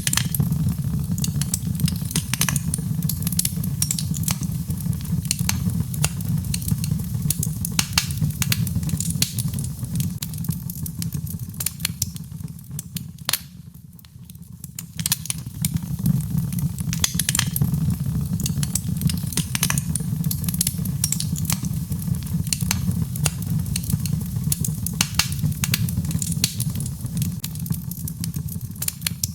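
Birchwood fire burning in a fireplace: a steady low rumble of flames with frequent sharp crackles and pops, easing briefly about halfway through before picking up again.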